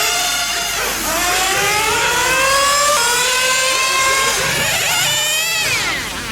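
Small nitro engines of 1/8-scale RC GT cars running at high revs. The pitch climbs steadily for the first few seconds, and near the end it drops sharply as the throttle comes off.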